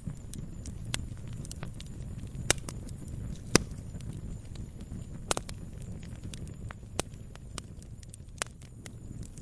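Campfire crackling: wood popping and snapping at irregular intervals over a low steady rumble, with a handful of louder pops scattered through.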